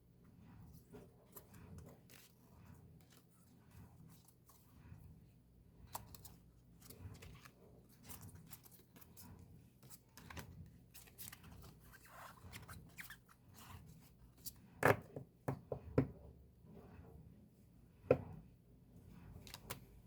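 Paper and plastic album packaging being handled and torn open: a run of small rustles, crinkles and tearing sounds, with a few sharp knocks of the album against a surface in the last quarter.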